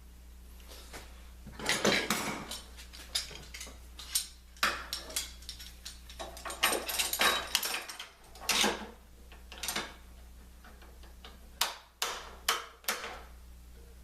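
Metal clamps and hand tools being handled and tightened, giving irregular clanks and clicks in clusters, with a steady low hum underneath.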